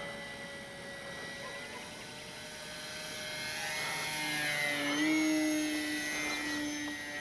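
E-flite Sportix RC plane's electric brushless motor and propeller whining in flight. The sound grows louder to a peak about five seconds in as the plane passes, dipping slightly in pitch, then fades.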